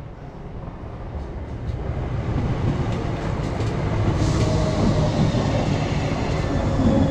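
ScotRail electric multiple unit running into the platform, its rumble growing louder as it draws alongside, with a few clicks of wheels over the rail joints early on. A thin whine joins in from about halfway.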